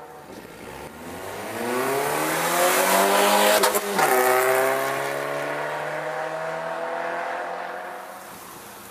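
Peugeot 106 1.4-litre four-cylinder engine through a stainless-steel exhaust line, revving up to a peak about three and a half seconds in with a brief crackle there, then easing off as the pitch falls slowly.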